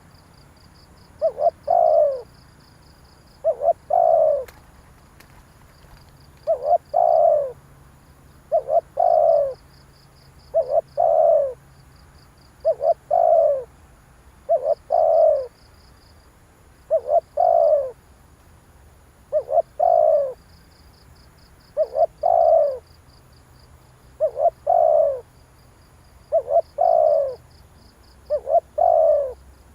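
Spotted dove cooing: a low two-part coo phrase, a short note then a longer one, repeated steadily about every two seconds, some thirteen times. A faint, rapid, high chirping trill comes and goes behind it.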